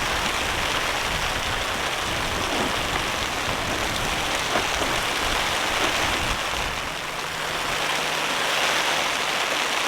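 Heavy rain falling steadily on a shelter, with gusting wind rumbling low for the first several seconds.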